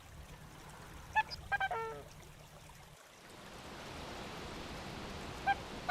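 Faint steady running water that rises in after about three seconds, preceded by a few short faint calls about a second in.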